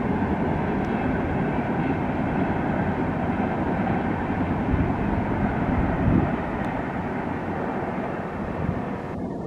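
Steady rumble of a long passenger train running along the line, heard from far off.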